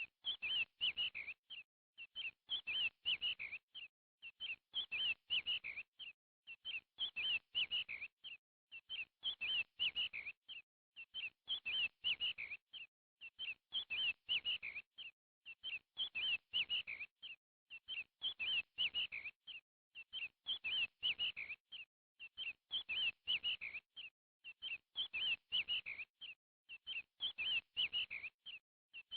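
Bird chirping: a phrase of quick, high chirps repeated about every two seconds with short gaps between.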